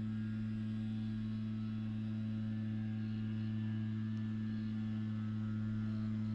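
A steady low humming drone: one low note with a second, equally strong note an octave above, held unchanged throughout.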